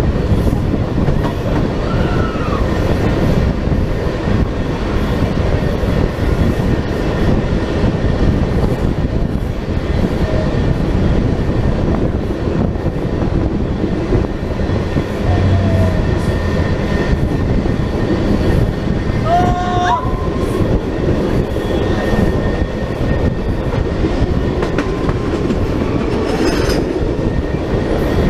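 Two trains passing each other on adjacent tracks at close range: a loud, steady rumble of railcar wheels on rail.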